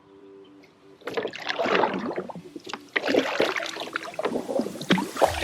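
Background music fades out in the first second. Then water splashes and sloshes right beside the kayak, irregular and close, with sharp crackling splashes throughout.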